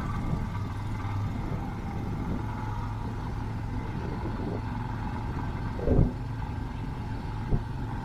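Steady low hum of a running engine, with a short thump about six seconds in and a smaller knock near the end.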